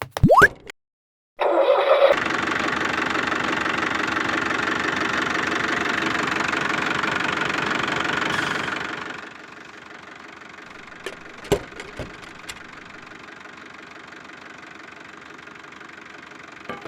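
Small motor of a DIY mini tractor running steadily. About nine seconds in it drops to a much quieter level, with a few sharp clicks a couple of seconds later.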